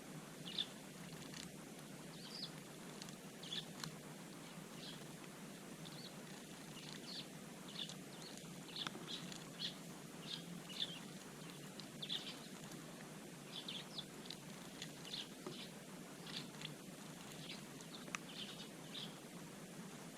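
Eurasian tree sparrows chirping: many short, separate chirps coming irregularly, over a faint steady background hiss.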